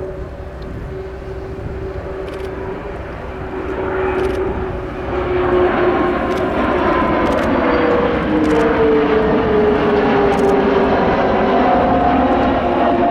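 Kawasaki P-1's four turbofan engines on a low flypast. The jet noise swells about four to six seconds in and stays loud, and the engines' whine slides down in pitch as the aircraft passes.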